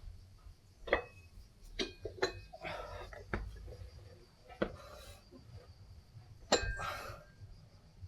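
Loaded metal dumbbells clinking: about six sharp metal knocks at irregular spacing, some with a short ring, during a set of dumbbell chest presses.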